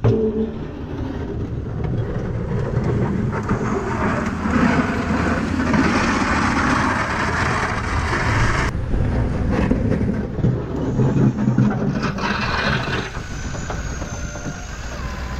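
Engine of a snowplow vehicle running steadily while plowing snow. A rushing noise rises over it from about three seconds in and cuts off suddenly near nine seconds.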